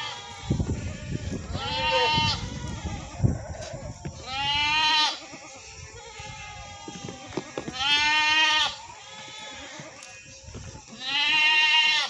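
Goats bleating: four wavering, drawn-out bleats, each about a second long and roughly three seconds apart, with a low rumbling noise under the first two.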